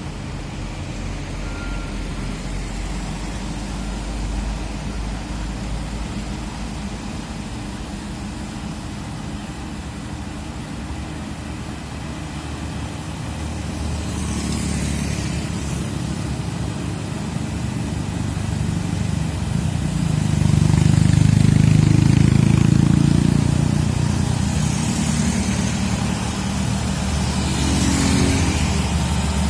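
Heavy truck diesel engine running under load, growing louder and heavier about two-thirds of the way through. A few brief high hisses come over it.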